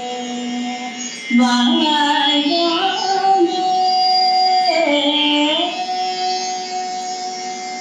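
Carnatic-style Tamil devotional song: long held melodic notes that slide and step from one pitch to the next, with no words.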